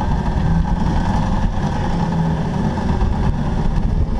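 Jeep engine running steadily under load as the vehicle drives up an obstacle on a tight recovery line.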